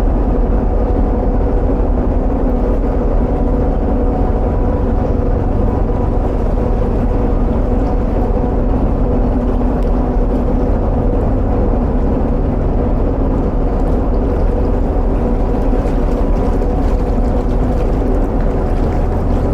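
Narrowboat engine running steadily at cruising speed inside a long brick canal tunnel: an even low rumble with a constant hum over it, unchanging throughout.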